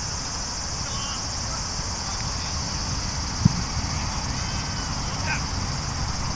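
Steady high-pitched insect drone over a low rumble, with faint distant shouts and a single sharp thump about three and a half seconds in.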